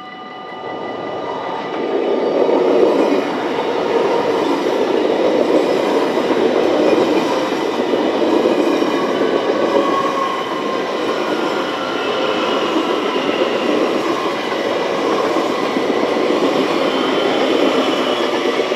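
Dutch Railways (NS) double-decker passenger train passing over a level crossing at speed: a steady rumble of wheels on rail that swells about a second in and falls away at the very end. The crossing's electronic warning bell keeps ringing underneath.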